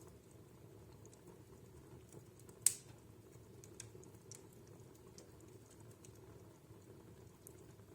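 Wood fire in a fireplace crackling softly, with scattered small pops and one sharp, much louder crack about two and a half seconds in.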